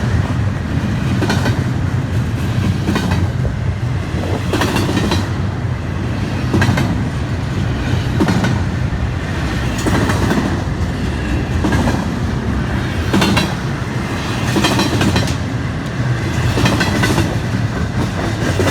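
Railroad cars of a passing train rolling by with a steady rumble. Their wheels clack over the rail joints in a regular beat about every second and a half to two seconds as each car goes past.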